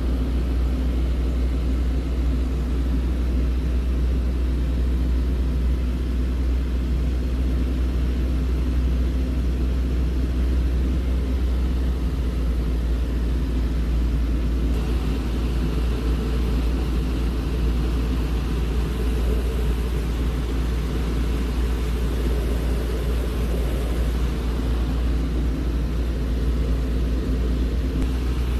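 Steady drone of a small airplane's piston engine and propeller, heard from inside the cabin, with a deep, even hum. The level never changes; a little more hiss comes in about halfway through.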